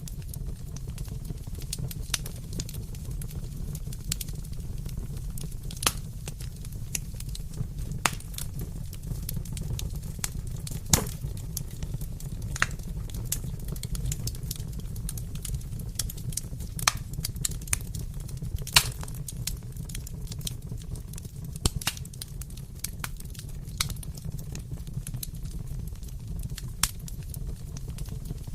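Fireplace fire crackling: a steady low rumble with sharp pops and snaps scattered irregularly, every second or two, a few of them louder.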